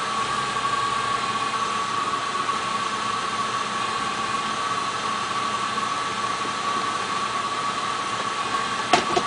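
Audi A8 engine idling after a cold start, the rough idle the owner is documenting, running steadily with a constant high whine over it. A couple of sharp clicks near the end.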